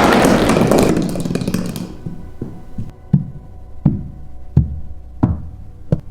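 A loud rushing crash that fades over about two seconds, then five dull thuds at an even pace, roughly one every 0.7 seconds, over a steady low hum.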